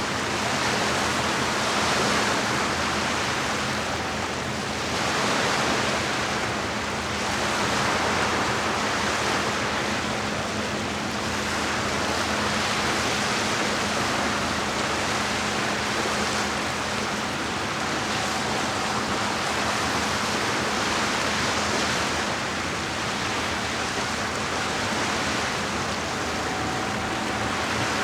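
Lake water washing against the shore, rising and falling in swells about every three seconds over a faint steady low hum.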